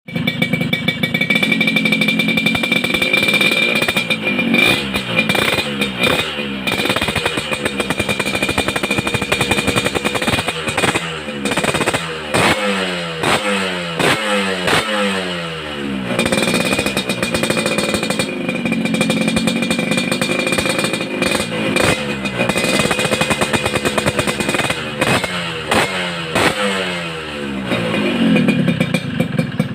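Two-stroke Yamaha RX motorcycle with an aftermarket racing exhaust, revved again and again, the revs falling back after each blip.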